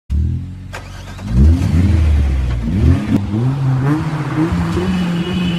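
Motorcycle engine accelerating, its pitch rising repeatedly as it pulls through the gears, with a heavy low rumble starting about a second in, then running at a steadier pitch.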